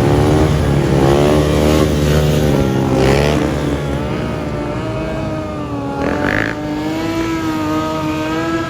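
Motorcycle engines revving, their pitch swinging up and down over a low idling hum. In the second half, one engine is held at a steady high pitch.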